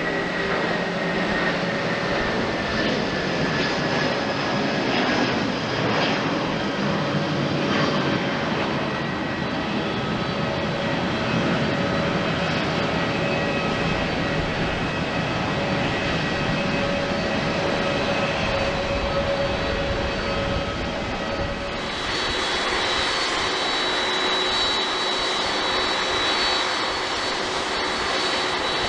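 Jet airliner engines running with a steady whine over a broad rush of noise. About 22 seconds in the sound changes abruptly: the low rumble thins and a higher, steadier whine takes over.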